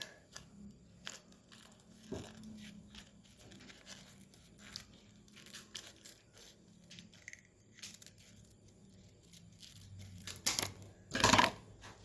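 Plastic packaging being handled and cut open with scissors: small clicks and crinkles, then two short, louder tearing sounds near the end.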